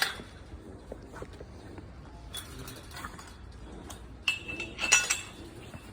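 Metal food bowls clinking and rattling as hounds finish eating, with two louder ringing clinks a little past four seconds and near five seconds.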